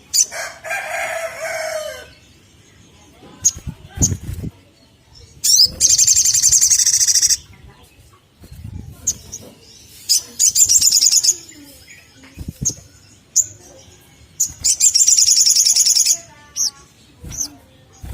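Olive-backed sunbird song: three loud bursts of fast, high-pitched trilling, each one to two seconds long, with short high chips scattered between them. In the first two seconds there is a lower, drawn-out call like a rooster's crow, and there are a few dull thumps.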